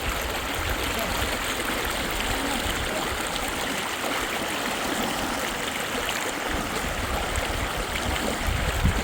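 Fast river water rushing steadily, with a few low thumps near the end.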